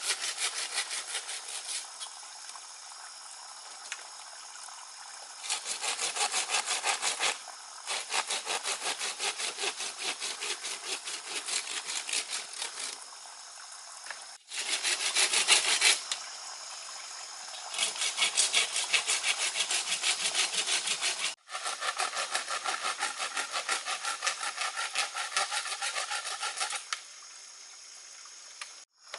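Hand saw cutting wood in rapid back-and-forth strokes, in bouts of a few seconds separated by short pauses.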